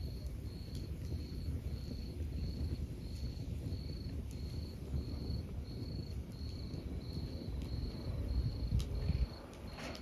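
A cricket chirping in an even rhythm, about one and a half chirps a second, over the low rumble of a log fire with a few sharp crackles.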